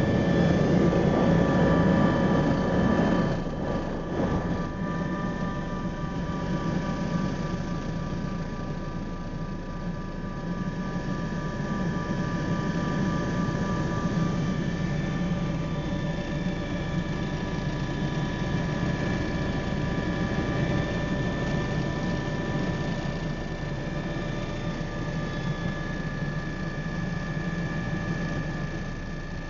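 MBB Bo 105 helicopter running, with a steady turbine whine over the rotor and engine noise. It is louder for the first three seconds, then holds steady a little quieter.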